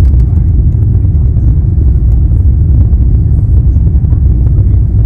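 Steady, loud low rumble of an Airbus A350-900 airliner heard from inside the passenger cabin: engine and airflow noise with no separate events.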